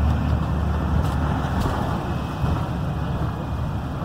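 Blue Bird Vision school bus driving, heard from inside the bus: the Cummins B6.7 diesel engine running steadily under the road and tyre noise.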